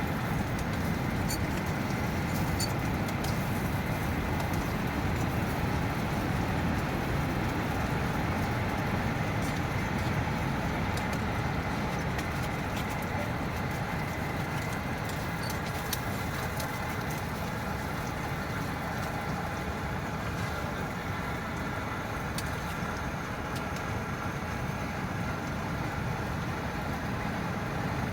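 Steady rumble of heavy wind with rain pattering on a camping shelter, scattered small taps of drops over the constant noise.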